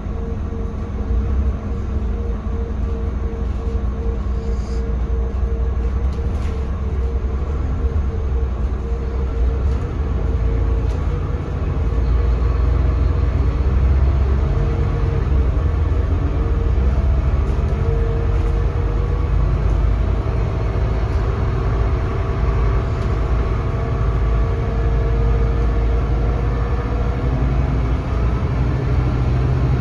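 Scania K320CB bus heard from on board, its five-cylinder Scania DC9 diesel engine and ZF Ecolife automatic gearbox running with a steady drone and low road rumble. The level rises about twelve seconds in.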